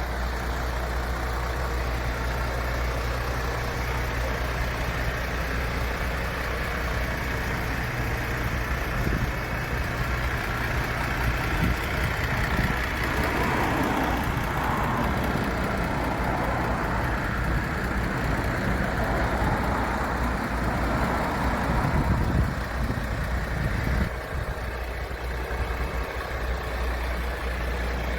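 MAN TGX 26.440's 440 hp Euro 6 straight-six diesel idling steadily with a low, even hum. It dips a little in level about twenty-four seconds in.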